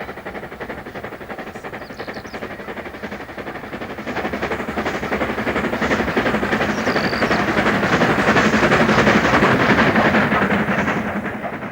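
LMS Black Five two-cylinder steam locomotive working a train up a climb, its exhaust beats coming fast and growing louder as it draws near.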